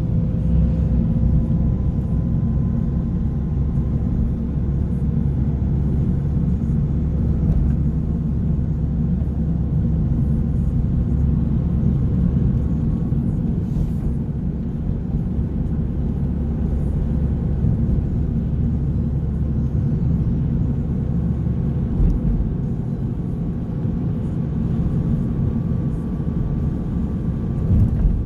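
Car driving along with a steady low engine and road rumble, unchanging throughout.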